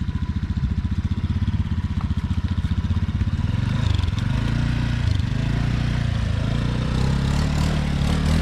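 Motorcycle engine running while riding: an even low pulsing for the first few seconds, then the engine note rises and falls with the throttle from about three and a half seconds in.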